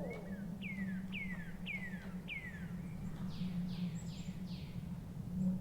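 Songbird calling: four clear whistled notes, each falling in pitch, about half a second apart, then four quicker, rougher downward-sweeping notes. A steady low rumble runs underneath.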